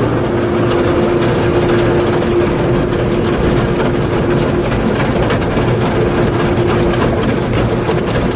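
Steady, loud mechanical rumble with a steady hum, like a running engine or vehicle; the hum drops out about seven seconds in.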